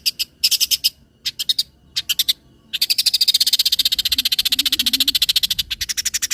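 Long-tailed shrike (cendet) singing fast, high, rattling trills. Several short bursts come first, then one long trill of about three seconds, then more short bursts.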